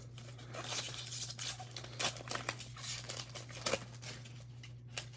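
Foil trading-card pack being torn open and its wrapper crinkled, with a couple of sharp snaps, over a steady low hum.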